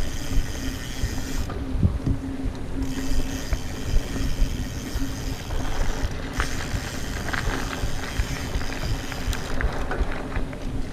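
Mountain bike riding fast over a rough trail: a continuous rumble of tyres and frame full of small knocks and rattles, with a steady hum underneath.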